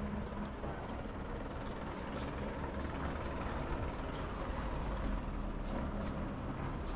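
A motor engine running steadily at a low idle, with a constant low hum and no change in pitch.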